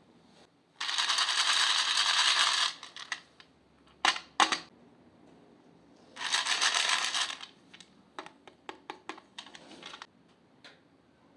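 Close handling of makeup items: two scratchy stretches of noise a few seconds apart, two sharp clicks between them, then a quick run of small clicks.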